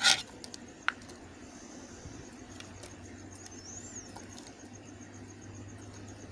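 A short, loud, crisp snap as a knife cuts into a bar of soap, followed by a small sharp click about a second in; after that only a faint steady background with a few thin high chirps.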